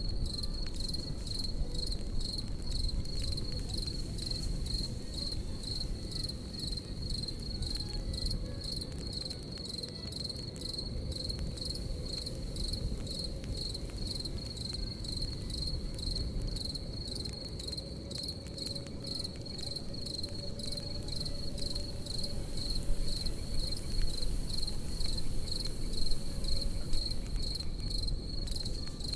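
Crickets chirping in a steady, even pulsing rhythm over the low rush and crackle of a campfire, with a few sharper crackles in the last few seconds.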